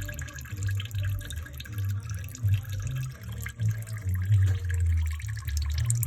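Old engine oil pouring in a stream from the open drain-plug hole of a Lexus RX330 sump into a catch pan, with dripping and splashing.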